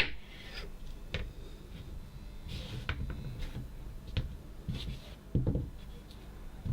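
Kinetic sand being cut and scraped with a blade: soft rubbing scrapes and light clicks, with a sharp knock at the very start and a dull thump a little past five seconds in.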